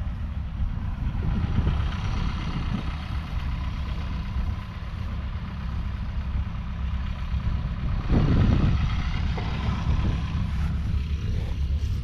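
Mercedes-Benz Unimog U1000's 5.7-litre six-cylinder diesel engine running steadily, with a brief louder surge about eight seconds in.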